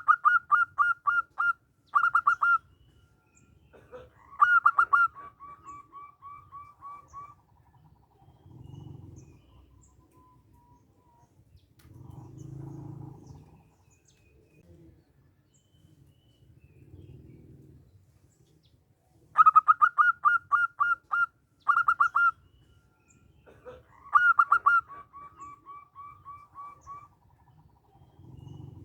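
Zebra dove singing its cooing song twice: each time a quick run of loud, clipped notes, then a second phrase that trails off into a string of softer repeated notes. The second song starts about two-thirds of the way through, and faint low sounds come in the gap between the songs.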